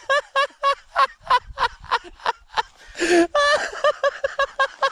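A person laughing hard: a high-pitched, cackling run of short 'ha' bursts, about four a second, broken by a gasping breath about three seconds in.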